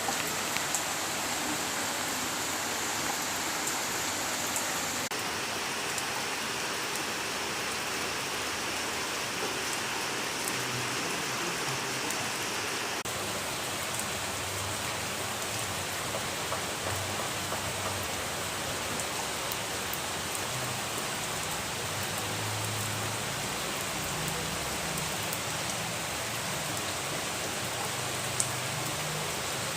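Steady rain falling, an even hiss with scattered sharper ticks of drops striking a surface.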